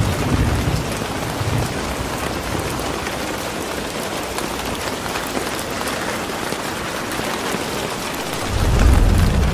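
Steady rain falling, an even hiss of drops, with a low rumble swelling about eight and a half seconds in.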